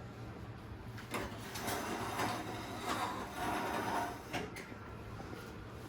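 Kitchen items being shifted about by hand: a few light knocks and irregular scraping as things are moved aside.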